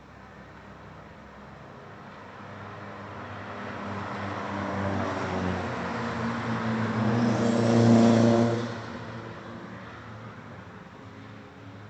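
A car approaching and driving past: its engine grows steadily louder to a peak about two-thirds of the way through, then falls away quickly as it passes.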